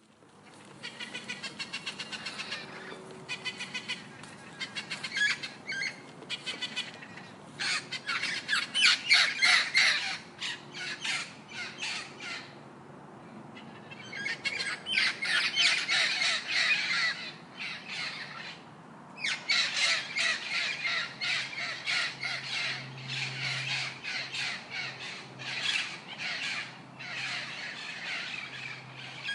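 Parrots squawking in runs of rapid, harsh, repeated calls, broken by brief pauses about twelve and nineteen seconds in.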